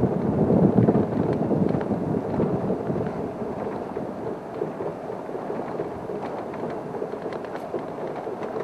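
Safari vehicle's engine running as it moves forward, a low rumbling noise that is loudest in the first second or two and then eases.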